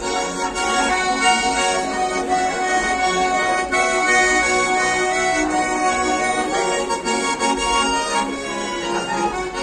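Accordion music playing, with sustained, shifting chords.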